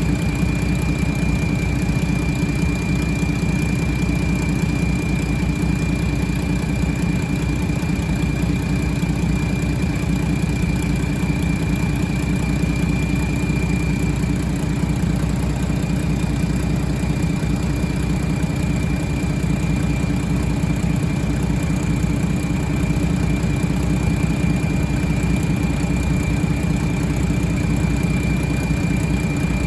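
International A26 inline-six diesel engine idling steadily, with a steady high whine over the engine note.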